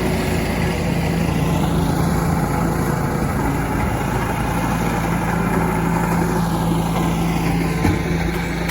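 An engine running steadily: an even hum over a broad rushing noise.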